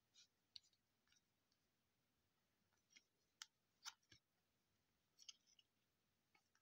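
Faint, scattered clicks and flicks of trading cards being handled and flipped through one by one, in a cluster of several about halfway through and again a second or so later, over near silence.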